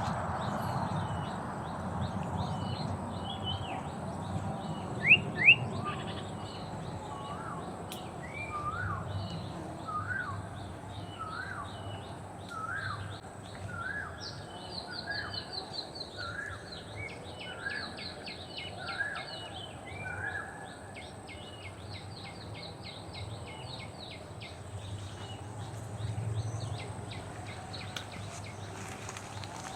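Several birds singing in the open. Two loud, sharp, rising chirps come about five seconds in. From about eight to twenty seconds one bird repeats a short note roughly once a second, while others chirp higher, all over a low steady rumble.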